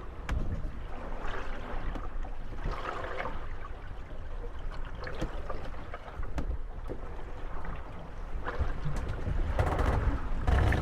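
Moored gondolas rocking in the swell: water sloshing and slapping against the hulls in washes that rise and fall, with a few sharp wooden knocks as the boats bump together. A low wind rumble runs underneath and grows louder near the end.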